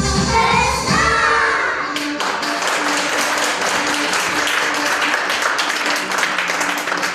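A song with sung vocals ends about two seconds in, and audience applause follows and carries on.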